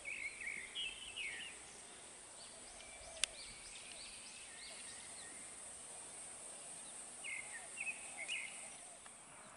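Birds chirping in short quick groups near the start and again near the end, over a steady faint high hiss, with one sharp click about three seconds in.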